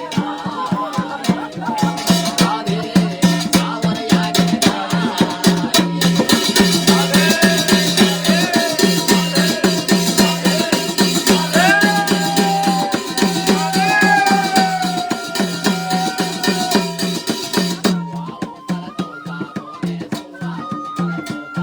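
Instrumental passage of Garhwali jagar folk music: drums keep a steady, fast beat under a melody line with sliding notes, and the melody changes to higher, stepped notes about eighteen seconds in.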